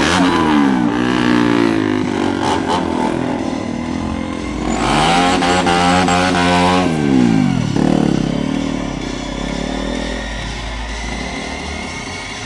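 KTM motorcycle engine revving, its pitch rising and falling in the first seconds, then held high for about two seconds from about five seconds in before dropping away. The engine runs lower and quieter toward the end.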